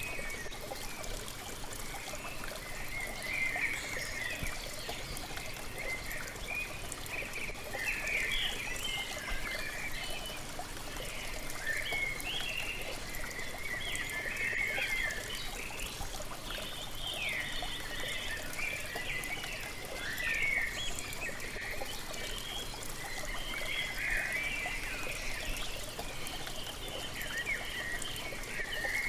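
Waterfall splashing steadily, with several birds chirping and singing almost without pause over it.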